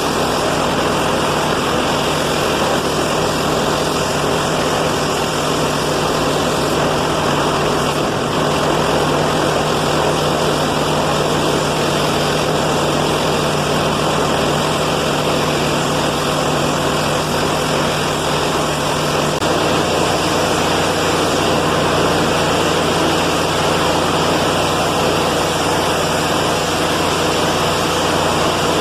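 Trailer-mounted pressure washer's engine running steadily under the hiss of a high-pressure water spray. About two-thirds through, the engine's hum drops to a lower pitch.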